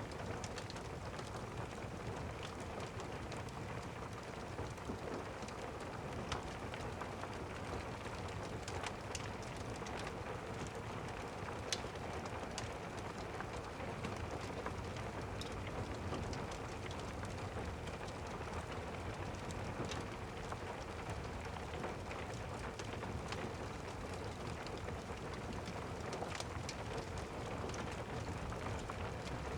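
Steady rain with a crackling fireplace: an even hiss of rain with scattered sharp pops of the fire, a louder one about twelve seconds in.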